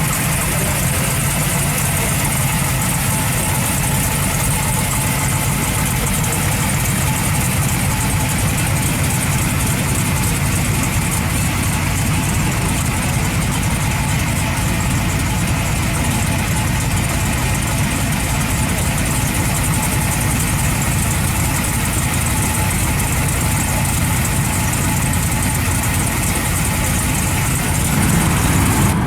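Mopar 511 ci stroker big-block V8 with a tunnel ram intake, idling steadily and loudly in a 1976 Plymouth Fury.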